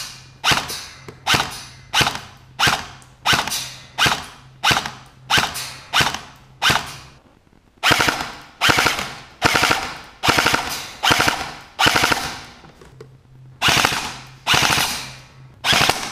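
Diboy M4 CQB airsoft electric gun firing. First about a dozen single shots, roughly one every two-thirds of a second. From about eight seconds in it switches to short full-auto bursts of about a second each, with the gearbox cycling rapidly.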